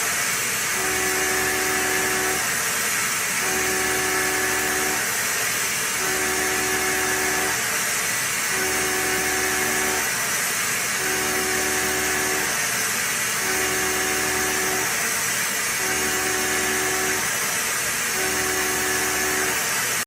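CNC machine milling stainless steel at a deep 2-inch cut: a steady coolant-like hiss with a cutting hum that comes in for about a second and a half and drops out for about a second, repeating evenly about every two and a half seconds.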